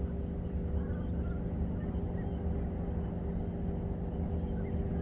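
Steady low rumble of an idling vehicle engine, with a few even hum tones.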